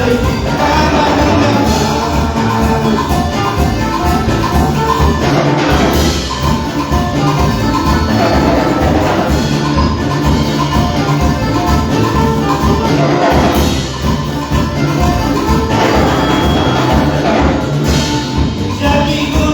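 Instrumental band music with a steady, pulsing bass beat and sustained melody lines, in a Latin American dance style.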